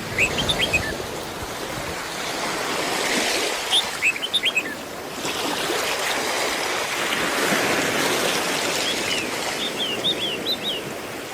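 Sea waves washing in and out on the shore, swelling twice, with small birds chirping in short bursts of quick high notes.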